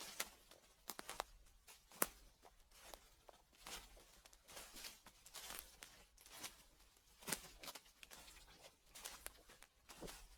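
Footsteps walking through fallen leaves: crackling and rustling with each step, at a slow, irregular pace, with one sharper crack about two seconds in.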